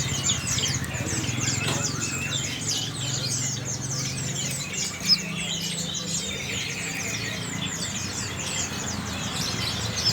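Many caged songbirds chirping at once, a dense, continuous chorus of short high chirps, over a steady low hum. A single sharp click about five seconds in.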